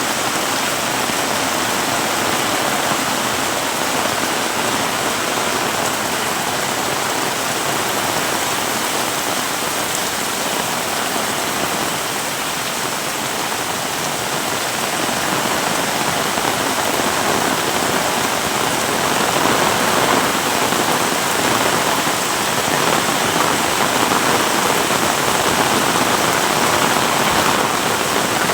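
Heavy rain pouring down steadily, a dense continuous hiss of water that grows a little louder in the second half.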